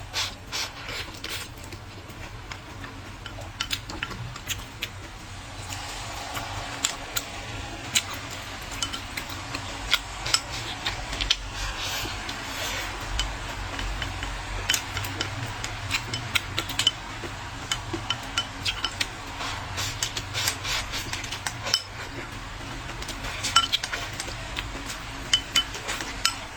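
A person eating close to the microphone: chewing and mouth sounds, with frequent irregular clicks of utensils against a bowl.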